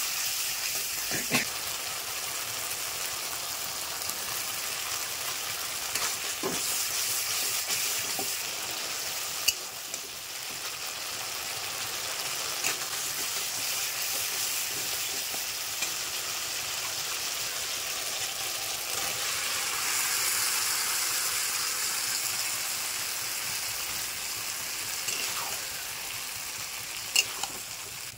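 Spice masala sizzling as it fries in a metal kadai, stirred and scraped with a steel spatula, with a few sharp clicks of the spatula against the pan.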